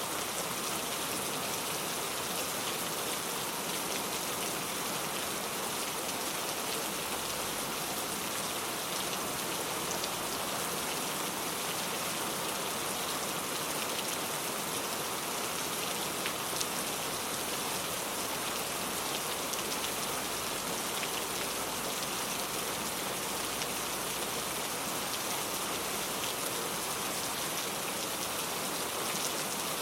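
Steady rain falling, a constant hiss with scattered drop ticks on a surface.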